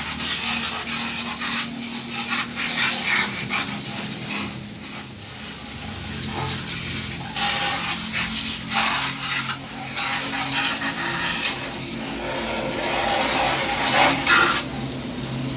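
Irregular scrubbing and splashing of water on a window air conditioner as it is being washed, over a faint steady low hum.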